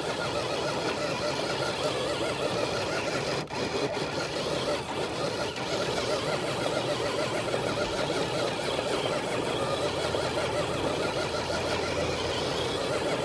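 RC truck's electric motor and geartrain whining steadily under load as it drags a weighted dead sled.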